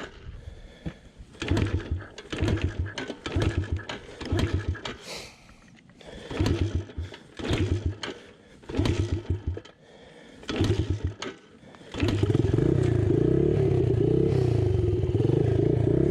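Engine noise: short bursts of engine sound about once a second, then a louder continuous engine run that starts about twelve seconds in, its pitch wavering near the end.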